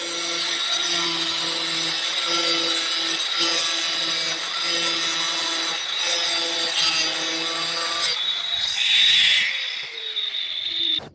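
Power tool running under load in repeated strokes about a second apart, with a steady motor hum. About nine seconds in there is a louder hissing scrape, then the motor's pitch falls as it winds down, and the sound cuts off abruptly.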